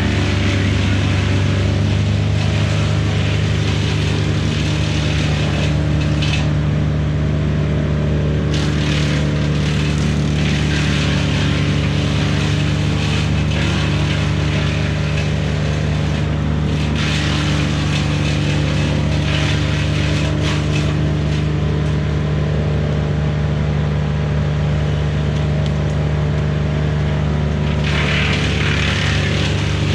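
A heavy diesel engine running steadily at a constant speed, with a hiss of noise over it.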